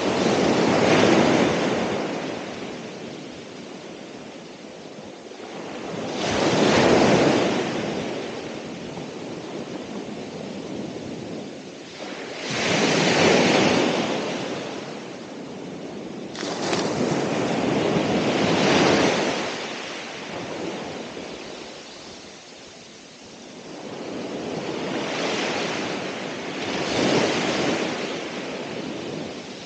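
Ocean waves breaking and washing in, each surge swelling and fading, one about every six seconds.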